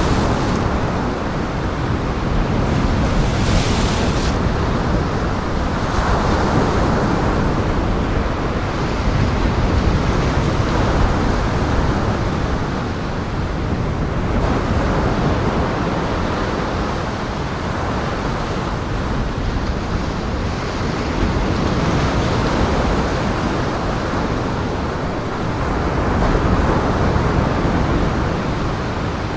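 Surf and wind: a steady rushing noise of breaking waves that swells and eases every few seconds, with a brief sharper hiss about four seconds in.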